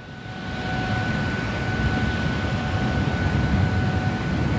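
Airport Rail Link electric train running past on the elevated viaduct: a rumble that builds over the first second and then holds steady, with a thin high whine running through it.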